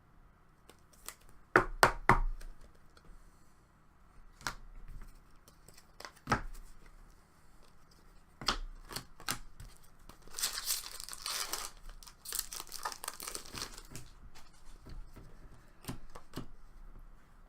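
A trading-card pack wrapper being torn open and crinkled, the tearing strongest about ten seconds in. It comes with a few sharp clicks and taps from the cards and packaging being handled.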